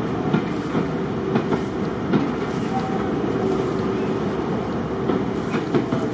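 A train running on the rails: a steady rumble with frequent short knocks and clicks from the wheels over the track.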